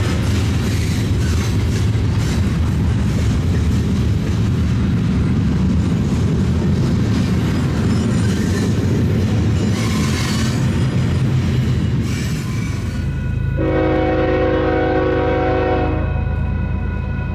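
Freight train rolling past with a loud, steady rumble of wheels on rail. About thirteen seconds in the sound changes, and a diesel locomotive's air horn sounds a chord of several tones for about two and a half seconds.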